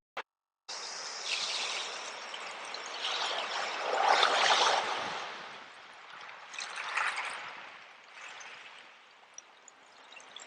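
Sea waves washing in and drawing back, the sound swelling and fading in surges; the biggest wave breaks about four to five seconds in, with smaller ones around seven and eight seconds. The sound drops out to silence for about half a second right at the start.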